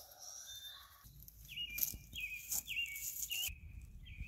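A bird calling over and over, a short whistled note that steps down in pitch, repeated every half second or so. A low rumble and a few faint clicks sit underneath.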